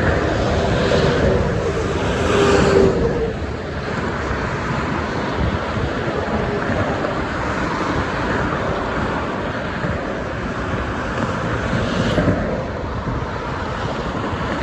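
Steady rushing noise of expressway traffic, with heavy trucks and cars passing. A louder pass with a low engine drone comes in the first three seconds, and another vehicle swells past about twelve seconds in.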